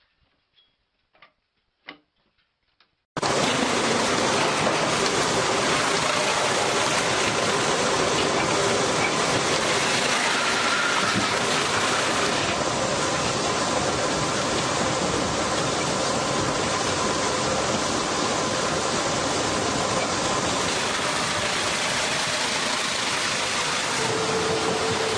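A few faint clicks, then about three seconds in a sudden start of loud, steady machinery noise, typical of sawmill machinery running.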